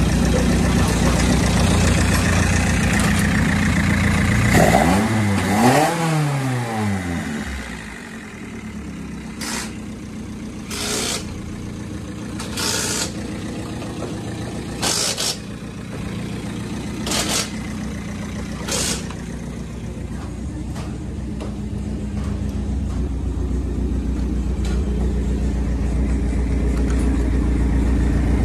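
Freshly rebuilt Toyota 4A-GE four-cylinder engine running on its first start after assembly: it is revved twice about five seconds in, then settles to a lower, quieter idle. A string of six short hissing bursts follows, and the engine grows louder again near the end.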